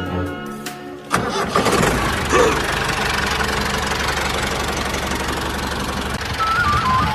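Music cuts off about a second in and an engine starts, then runs steadily with a dense, rattling noise. A thin wavering whistle-like tone comes in near the end.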